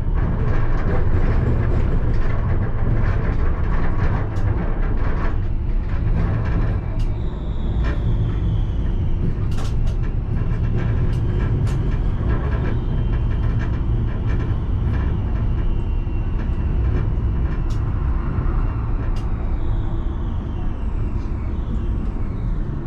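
Alstom Citadis tram running on its rails, heard from the driver's cab: a steady low rumble with scattered clicks from the wheels on the track. A high whine comes in about a third of the way through and slowly falls in pitch, dropping faster near the end as the tram slows.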